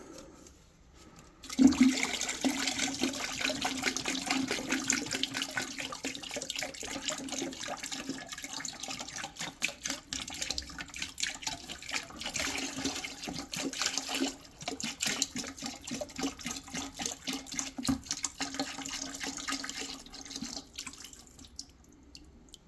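Liquid tankless water heater descaler poured from its container into a bucket of water, pouring and splashing steadily. It starts about a second and a half in and stops shortly before the end.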